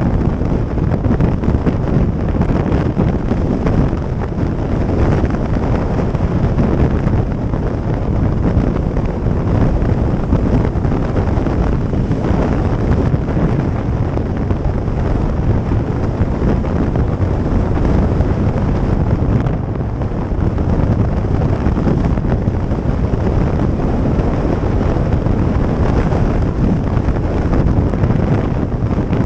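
Heavy wind buffeting on the microphone mixed with motorcycle engine and road noise while riding at a steady speed.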